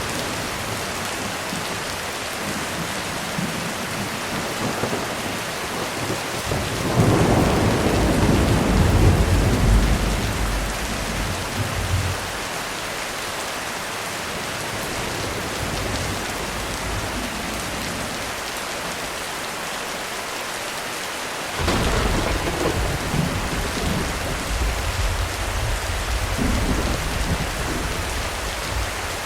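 Heavy rain falling steadily on a roof, with two rolls of thunder. The first swells in about a quarter of the way through and rumbles for about five seconds. The second starts more sharply about three-quarters of the way through and rumbles on for several seconds.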